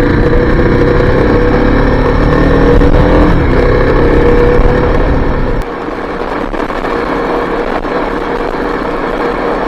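Single-cylinder four-stroke engine of a 2023 Kawasaki KLX-300 dual-sport motorcycle running under way, its pitch rising slightly over the first few seconds. A heavy wind rumble on the microphone drops away suddenly just past halfway, leaving the engine running steadily.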